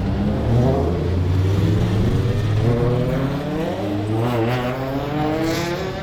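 Several race cars running on a circuit, their engines overlapping and rising and falling in pitch as they go by, with one passing close about four and a half seconds in.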